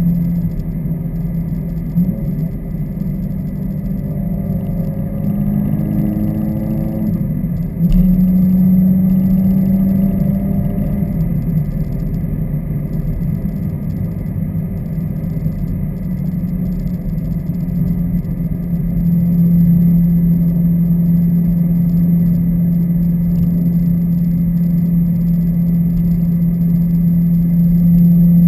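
2015 Subaru WRX's turbocharged flat-four with its axleback mufflers deleted, droning steadily while driving. The pitch wanders between about four and seven seconds in, a sharp click and a jump in loudness come about eight seconds in, and it gets louder again from about nineteen seconds.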